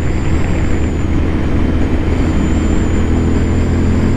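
Royal Enfield Continental GT 650's parallel-twin engine running at a steady cruise, with wind rushing over the helmet microphone.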